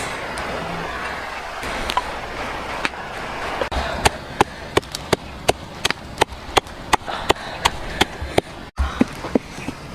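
Repeated chopping: a blade striking a wooden board at about three strokes a second, starting about four seconds in, over a steady hiss.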